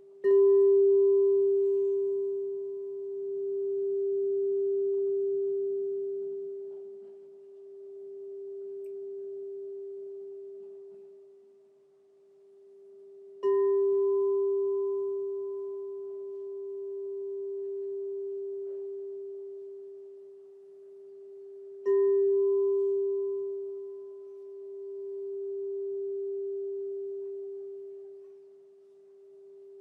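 Crystal singing bowl struck three times, each strike ringing on as one long, pure low tone with a fainter higher overtone. The ring swells and fades slowly as it sustains.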